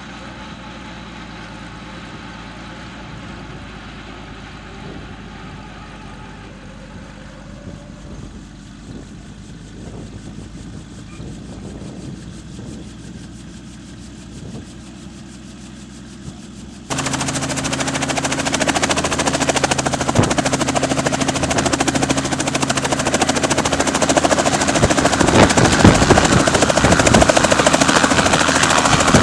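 Helicopter engine and rotor running steadily with a fast, chopping pulse. A little past halfway it cuts abruptly to a much louder, closer sound of the same rotor and engine.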